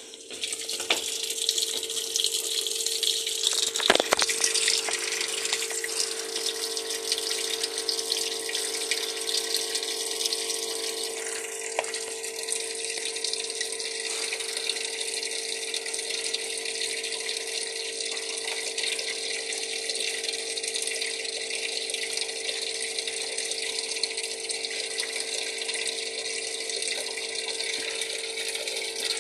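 Water gushing into a washing machine as it fills, starting abruptly and then running steadily over a constant hum, with one sharp knock about four seconds in.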